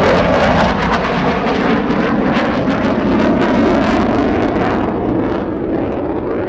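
Lockheed Martin F-35A Lightning II's Pratt & Whitney F135 jet engine in a loud pass, a heavy rumble with a crackling edge that eases slowly toward the end.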